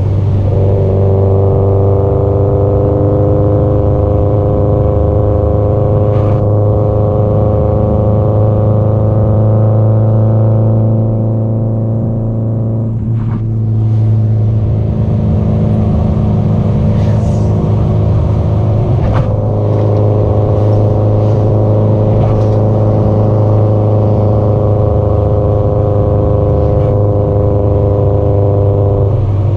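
Subaru Impreza WRX STI (GDB-E) turbocharged 2.0 L flat-four engine and exhaust under way at road speed, its note climbing slowly as it pulls. About twelve seconds in the note drops and quietens for a few seconds, then from about nineteen seconds it climbs again.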